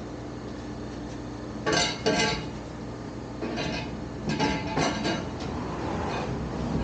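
Metal parts clanking and clinking as they are handled: two sharp clanks a little under two seconds in, then a run of smaller clanks a couple of seconds later, over a steady hum.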